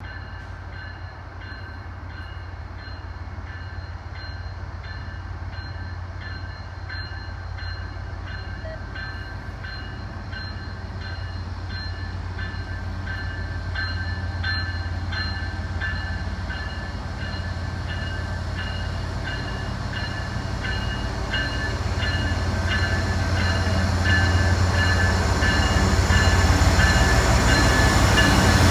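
CN freight train led by diesel locomotives approaching, its engines' low rumble growing steadily louder as the lead units come alongside.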